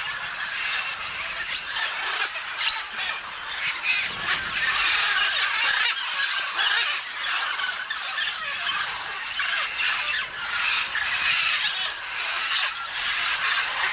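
Parrots squealing and screeching without a break: a dense run of rapid, shrill calls.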